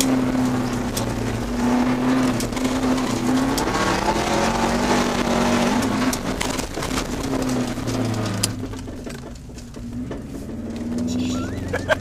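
Car engine pulling hard at varying revs during a rallycross run, heard from inside the cabin, with tyre noise and frequent sharp ticks of loose stones hitting the car. About eight seconds in the engine eases off and goes quieter, then picks up again near the end.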